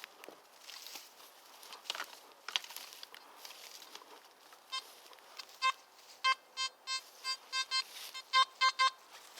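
Footsteps and rustling on the forest floor, then from about five seconds in a run of about fourteen short, same-pitched electronic beeps from a Nokta Makro Simplex Plus metal detector, sounding off on a buried metal target as the search coil is swept back and forth over it.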